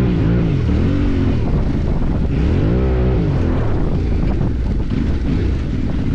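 Off-road motorcycle engine being ridden, revving up and dropping back as the throttle is worked, its pitch rising and falling twice in the first few seconds, with wind rushing over the microphone.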